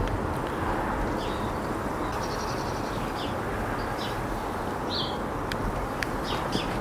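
Steady wind rumble on a Rode Stereo VideoMic X in its fluffy windshield, not overloading it. Short bird chirps come through now and then over the wind.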